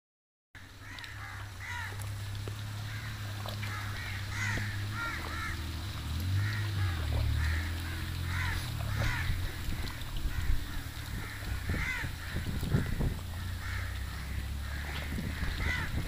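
Birds calling over and over in short harsh calls, one or two a second, over a steady low drone.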